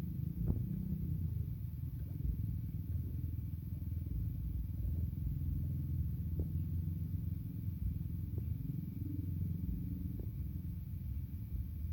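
A chorus of frogs giving low, continuous, rapidly pulsing croaks.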